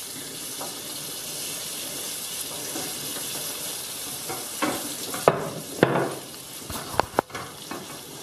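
Pancetta and guanciale sizzling as they fry in oil in a pan, a steady hiss. A few sharp knocks come between about five and seven seconds in.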